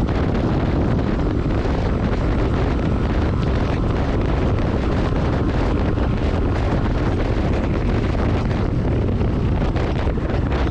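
Steady wind rush buffeting the microphone of a motorcycle rider at road speed, with low road and engine noise underneath.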